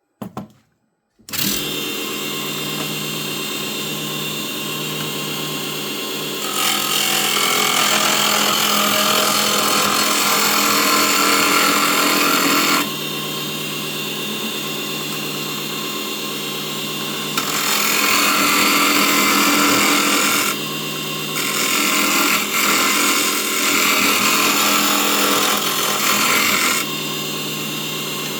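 Small 24 V mini wood lathe switched on and running at full speed with a steady motor hum. A turning tool cuts the spinning wood in three long bouts, each adding a loud scraping noise over the hum.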